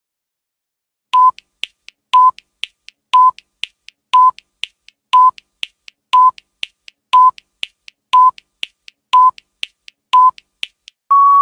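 Countdown timer sound effect: ten short electronic beeps at one pitch, one a second, with a softer tick between each, ending in a longer, slightly higher beep as time runs out.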